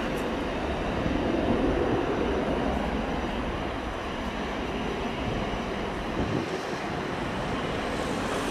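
Boeing 737-800's twin CFM56-7B turbofan engines at takeoff thrust: a steady jet engine rumble that swells briefly about a second in and eases slightly after the middle.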